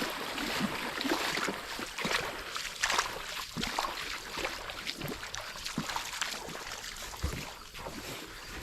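Footsteps splashing through shallow river water, with irregular strides about twice a second.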